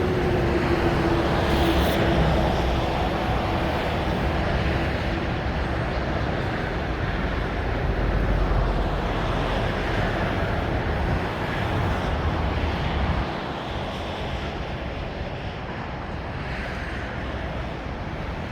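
Steady motorway traffic passing at speed, a continuous rush of tyres and engines, with a slowly falling whine from one passing vehicle in the first few seconds; the traffic noise eases a little after about thirteen seconds.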